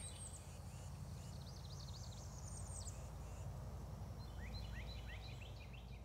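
Faint songbirds chirping: quick series of high chirps and short trills, with a run of rising notes in the second half, over a steady low outdoor rumble.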